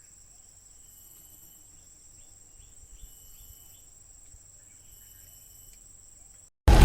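Crickets or other insects trilling steadily at a high pitch, with several short bird notes repeating every second or so. Near the end it cuts off and loud music comes in suddenly.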